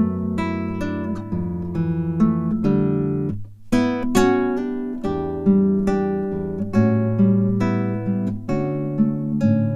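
Acoustic guitar music: chords strummed and plucked in a steady rhythm, with a brief break a little over three seconds in.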